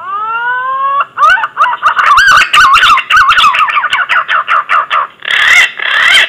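Green pigeon (punai) song, loud and clear, as used for a hunting lure call. It opens with one long rising whistle, breaks into a quick run of warbling whistled notes, and ends with two rougher, rasping notes; it starts and stops abruptly.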